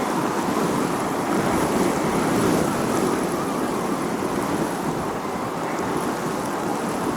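Wind blowing across a beach: a steady rushing noise that swells slightly about two to three seconds in.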